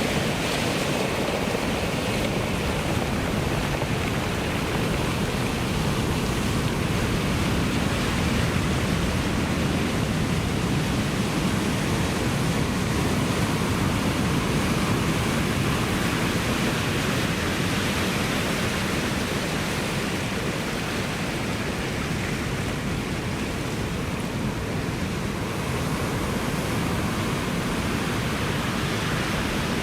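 Ocean surf: a continuous rush of breaking waves, steady, with only slight slow swells in loudness and no single distinct crash.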